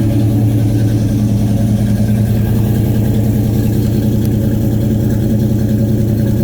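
1941 Chevy pickup's balanced and blueprinted 350 small-block V8 idling steadily.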